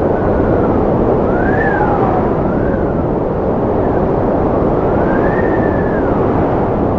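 Strong wind blowing in a steady rush, with a thin whistle that rises and falls in pitch about four times, the howl of gusting wind.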